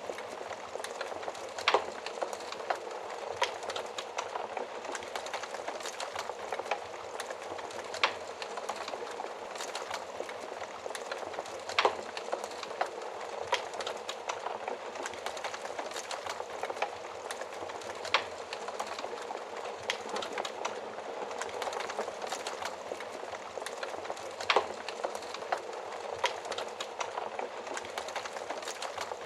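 Wood fire crackling steadily inside an oven fireplace, with a sharp louder pop every few seconds.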